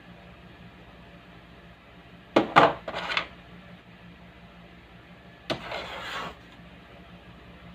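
Two short bursts of clicking and clattering, as of small hard objects or tools being handled and set down, the first beginning with two sharp clicks about two and a half seconds in, the second about five and a half seconds in. Under them a faint, steady low electrical hum.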